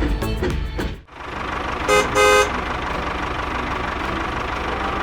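A motor vehicle's engine running steadily, its horn honking twice about two seconds in: a short toot, then a longer one.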